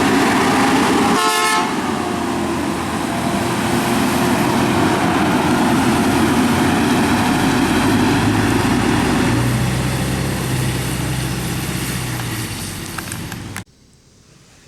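Garbage truck running loud and close, with a short horn toot about a second and a half in. The sound drops away suddenly near the end.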